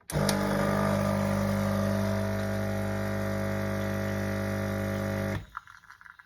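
Coffee machine's pump running with a loud, steady buzzing hum for about five seconds, then cutting off suddenly, followed by a few faint clicks.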